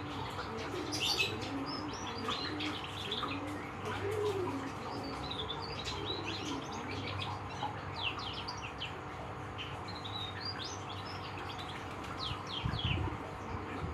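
Young canary, about a month old, twittering in quick runs of short, high chirps and trills. There is a low thump near the end.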